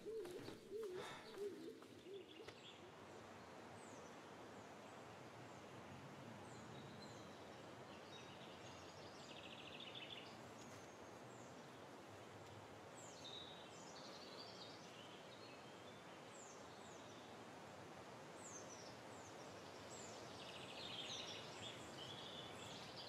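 Faint woodland ambience: birds singing, scattered short downward chirps and a couple of brief trills, over a steady low hiss.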